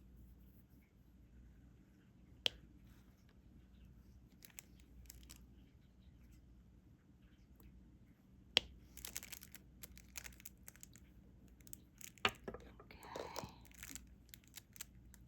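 Diamond painting in progress: a drill pen picking up and pressing resin drills onto the canvas, making a few sharp single taps seconds apart, then a spell of small rapid clicks and a short rustle near the end.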